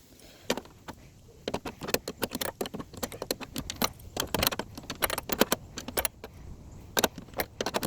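Adjustable crescent wrench tightening bolts by hand: a run of quick, irregular metal clicks and clinks as the wrench is turned and repositioned on the bolt heads, thickening after the first second and a half.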